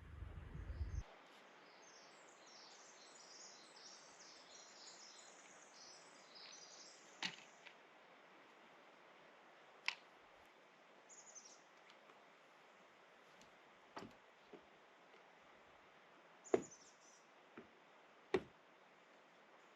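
Faint outdoor quiet with a bird twittering high for the first several seconds, then a handful of sharp knocks a couple of seconds apart.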